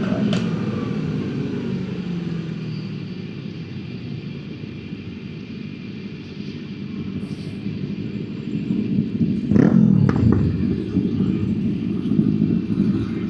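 Motor vehicle engine and road rumble during a ride. The engine's pitch falls and fades over the first seconds, then rises again about ten seconds in, with a sharp click just before.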